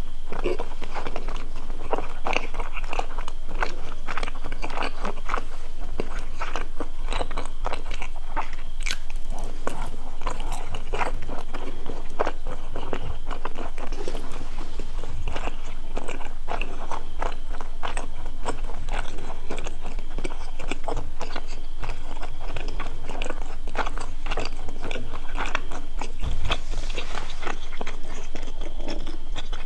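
Close-miked eating of crispy fried food: steady crunching and chewing of a full mouthful, with many small irregular crackles and mouth clicks.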